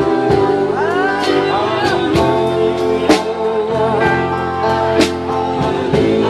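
Band music with a singer over held chords and a slow, steady beat of about one hit a second.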